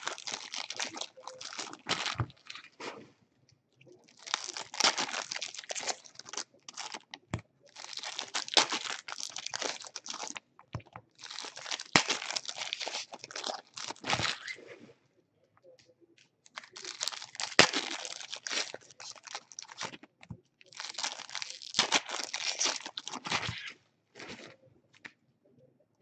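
Baseball card pack wrappers being torn open and crinkled, in about six bursts of a few seconds each with short pauses between.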